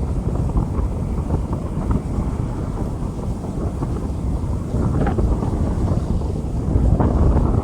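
Rain falling on a street, a continuous noise with a deep rumble underneath that grows a little louder near the end.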